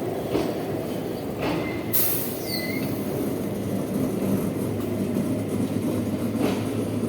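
Electric metro train moving slowly with a steady low rumble, broken by a few sharp cracks. About two seconds in comes a loud hissing crackle with a brief falling squeal: the arc as a current collector shoe breaks contact with the third rail.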